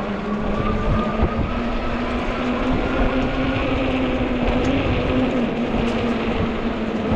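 A fat-tire e-bike's rear hub motor whines under power, its pitch rising gently over the first few seconds and then holding steady. Beneath the whine there is a steady rumble of tyre and wind noise.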